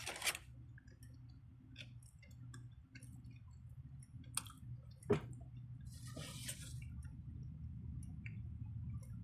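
Scattered small clicks and taps, with a short rustle about six seconds in, over a low steady hum.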